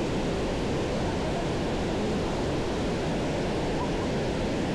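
Steady rushing noise of fast-flowing water, even and unbroken throughout.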